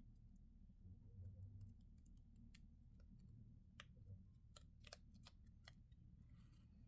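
Faint, scattered clicks and light crinkles of plastic candy packaging being handled, with a short soft rustle near the end, over a low steady hum.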